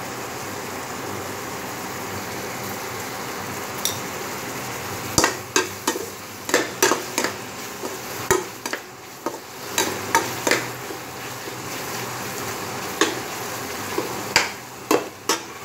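Onion and tomato masala sizzling in a metal pan while a metal spatula stirs it. From about five seconds in, the spatula scrapes and knocks against the pan in quick, sharp strikes.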